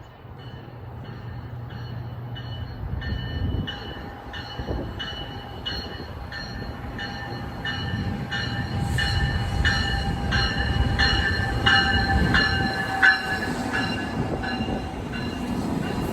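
Freight train approaching, its low rumble growing louder, with a bell ringing steadily about twice a second.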